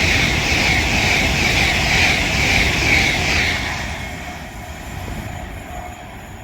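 Great Western Railway Intercity Express Train passing through the station non-stop at top speed: a loud rush of wheel and air noise with a rhythmic pulsing as the carriages go by, fading away about four seconds in.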